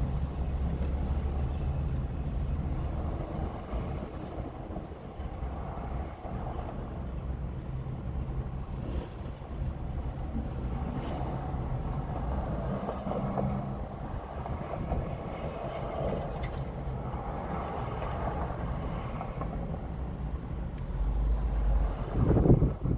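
Steady low mechanical hum with faint scattered clicks and rustles; a louder bump near the end.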